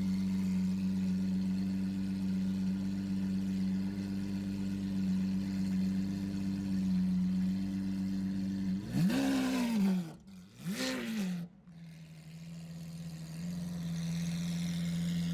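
Lamborghini Aventador V12 engine and exhaust idling steadily, then revved in two short throttle blips about nine and eleven seconds in. The pitch rises and falls with each blip, and the idle settles back afterwards.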